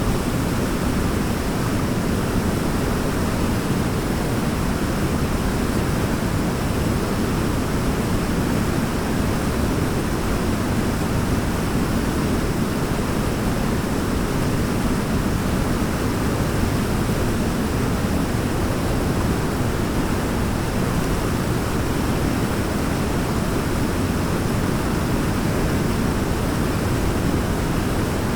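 Waterfall running: a steady, even rush of falling water, deepest in the low end, with no change in level.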